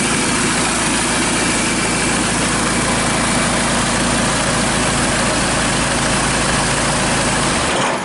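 Kia Sorento D4CB 2.5-litre four-cylinder turbodiesel, run outside the car on a test stand, running steadily at idle. The sound drops away right at the end.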